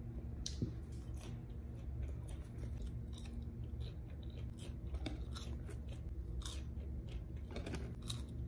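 A person chewing and biting thin, crispy French fries close to the microphone: irregular small crunches and mouth sounds. The fries are crisp only in a thin outer layer and soft in the middle.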